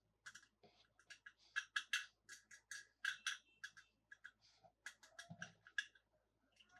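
Quick, irregular run of light clicks and crackles from hands handling plastic toy packaging and toy cars.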